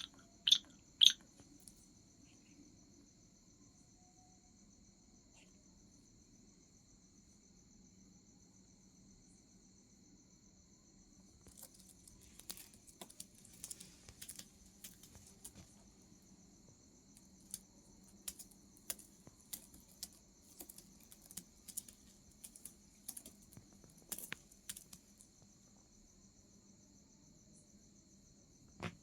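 Steady insect trilling in two high bands runs throughout, over a low hum. Sharp clicks and taps come twice loudly about a second in, then scattered through the middle and latter part.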